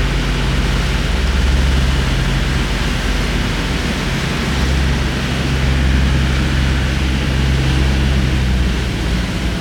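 Tender boat's engine running steadily, a low drone that eases off briefly about three seconds in and again near the end, under a constant hiss of wind and water.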